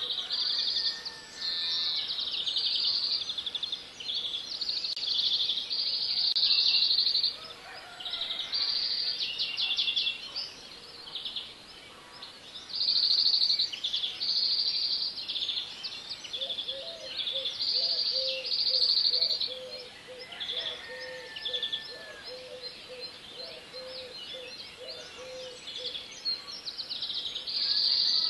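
Birds singing: one short trilled or chirping phrase after another, with a run of lower short notes in the second half.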